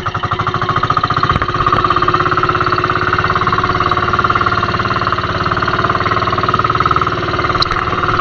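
Engine of a small fishing boat running steadily at close range, its rapid even firing pulses getting louder about a second in.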